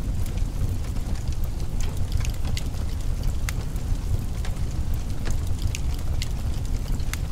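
Wood fire crackling in a fireplace: scattered sharp pops and snaps, a few a second, over a steady low rumble.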